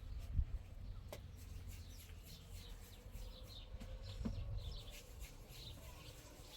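Faint, rapid bird chirps, short high notes repeating through much of the stretch, over a low background rumble with a few sharp clicks.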